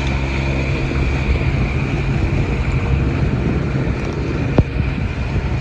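Steady low hum of the Gemini 105Mc catamaran's engine while motor sailing, under an even rush of wind and water. A single sharp click about four and a half seconds in.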